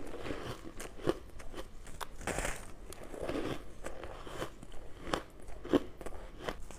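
Ice being bitten and chewed: irregular crunching with sharp cracks, the two sharpest about a second in and near the end.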